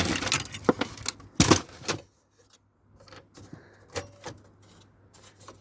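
Small metal parts of a dismantled video cassette recorder clattering and knocking as they are handled, with several sharp knocks in the first two seconds and a few lighter clicks after a short pause.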